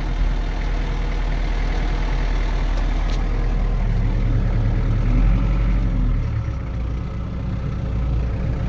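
Farm tractor engine running steadily, heard from inside the cab, with a shift in its low hum about six seconds in.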